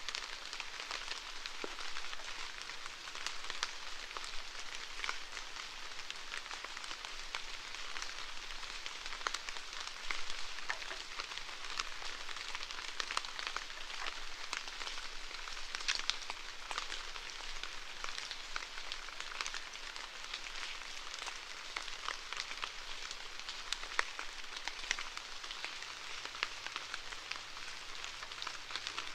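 Steady rainfall, a continuous hiss with many small drop ticks scattered through it.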